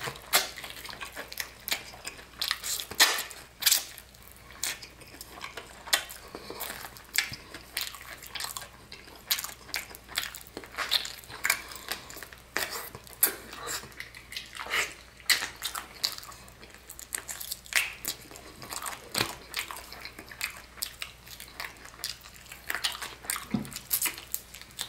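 Close-miked biting and chewing of a fried chicken drumstick coated in hardened tanghulu sugar candy: irregular sharp crunches and clicks.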